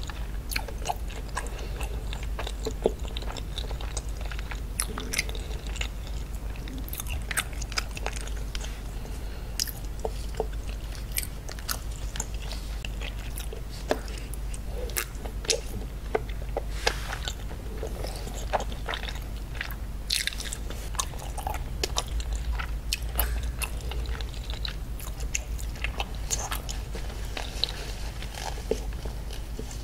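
Close-miked chewing and biting of raw seafood, scallop among it, with many small wet mouth clicks. A low steady hum runs underneath.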